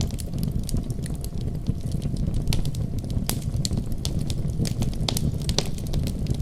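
Wood fire crackling, with irregular sharp pops and snaps, over a steady low rumble of storm wind.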